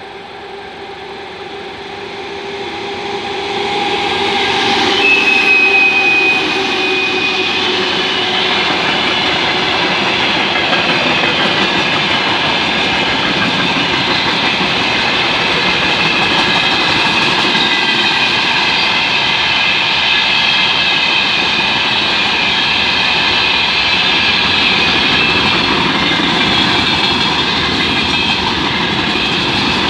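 A 2M62UM twin-section Soviet diesel locomotive, each section powered by a two-stroke V12 diesel, grows louder as it approaches and passes about five seconds in, its engine note dropping slightly in pitch as it goes by, with a brief high whine just as it passes. After it, the freight wagons roll past with a loud, steady rumble and ring of wheels on rail.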